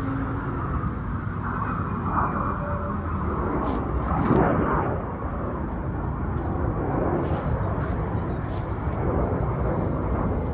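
Boeing 747's jet engines, a steady rumble that swells about four seconds in and then settles.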